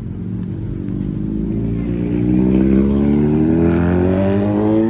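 A car engine accelerating under load, its pitch climbing steadily in one long pull and getting louder about two seconds in.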